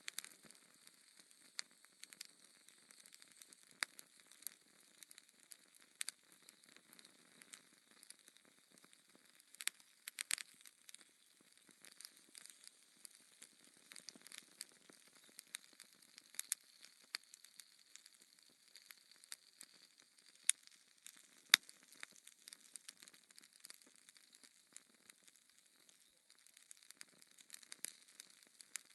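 Wood fire crackling in a fireplace: a faint steady hiss with scattered sharp pops and snaps, two louder pops a little past twenty seconds in.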